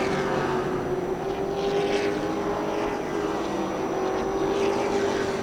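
Race trucks' engines running at speed around the oval, a steady droning tone.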